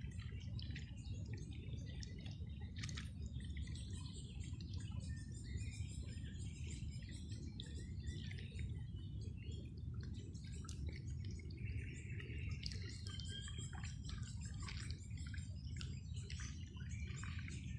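Several small birds chirping and singing in overlapping short calls and trills, over a steady low rumble.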